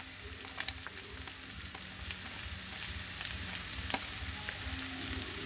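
Sliced onions and green chillies sizzling in hot refined oil in a wok over a high flame, a steady hiss with scattered light ticks as chopped carrots are tipped in on top.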